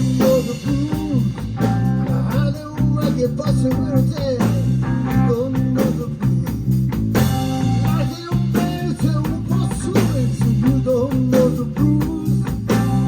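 Blues band playing live, with a guitar lead bending its notes over a steady, repeating bass pattern and drums.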